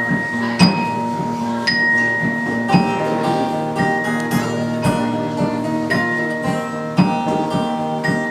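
A live band playing an instrumental passage: plucked, ringing, bell-like guitar notes over a regular beat that lands about once a second.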